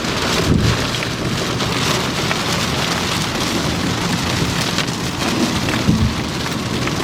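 Heavy rain pelting a moving vehicle, heard from inside the cabin as a dense, steady rush, with a couple of low thumps.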